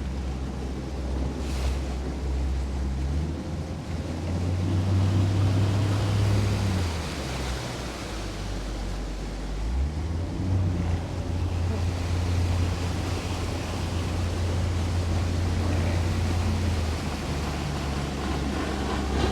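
Boat motor running underway, its pitch rising about three seconds in, dropping around eight seconds, rising again at ten seconds and easing off near the end as the throttle changes. Wind and water rush over the drone, with wind buffeting the microphone.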